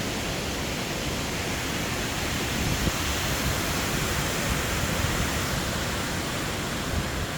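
Steady rush of strong hurricane wind, swelling a little a few seconds in.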